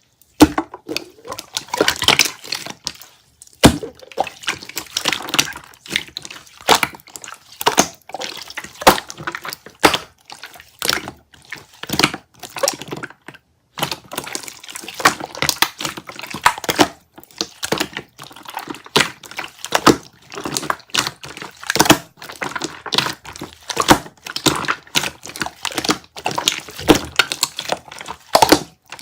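Slime being squeezed and pressed by hand, giving a dense, irregular run of wet clicks, pops and crackles with short pauses.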